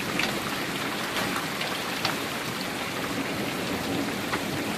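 Steady rain falling and pattering on surfaces, with a few scattered sharper taps.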